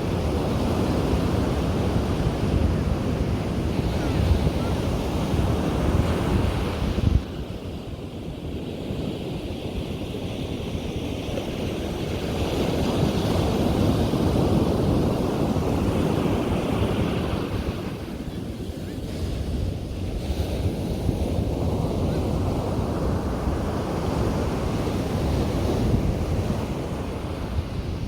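Sea waves breaking and washing up a beach, the surf swelling and easing over several seconds. Wind buffets the microphone with a low rumble that drops off suddenly about seven seconds in.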